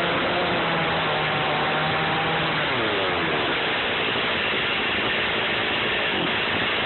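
Stihl MS460 Magnum two-stroke chainsaw running hard, heard from a phone mounted on the saw itself, most likely while cutting through a black locust log. The engine pitch slides and shifts about three seconds in, then holds steady.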